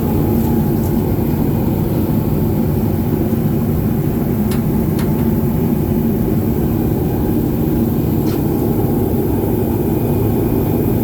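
A steady, loud machine rumble with a few faint light clicks.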